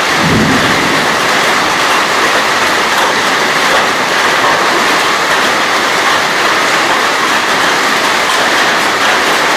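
Heavy hailstorm: a dense, steady roar of hailstones and rain pelting down, with one low thud about half a second in.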